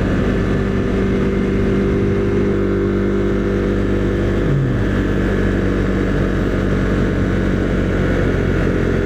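Husqvarna Svartpilen 401's single-cylinder engine running steadily under way at cruising speed, with a brief dip in pitch about four and a half seconds in.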